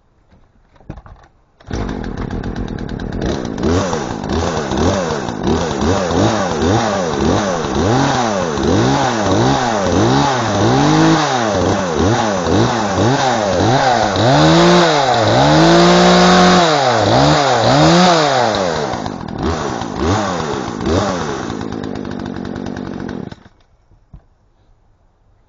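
Poulan Pro two-stroke chainsaw revved up and down over and over, about once a second, running on a fuel mix heavy on oil, then settling back toward idle. It comes in suddenly about two seconds in and cuts off abruptly near the end.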